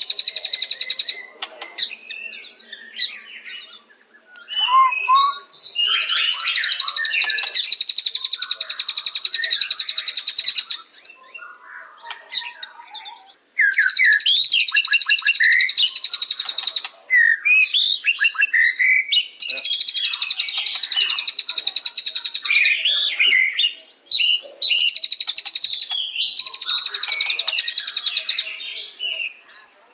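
White-rumped shama (murai batu) singing: varied sliding whistles and chatter, broken four times by long, dense, buzzy high trills lasting about three to five seconds each.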